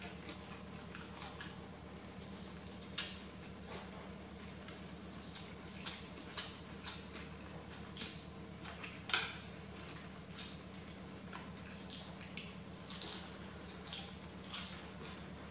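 Close-miked eating of yellow noodles: irregular soft smacks and clicks of chewing, some louder than others, over a steady high whine and low hum.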